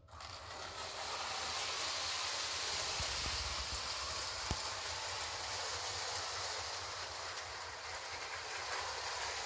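Lionel O-gauge Hudson model steam locomotive and its freight cars starting off and running on the track, a steady hissing rumble that comes up within the first second, with one sharp click about halfway through.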